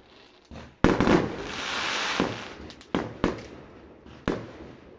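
Fireworks going off: a sharp bang about a second in, followed by about a second and a half of loud hiss, then three more sharp bangs, two in quick succession near the middle and one near the end.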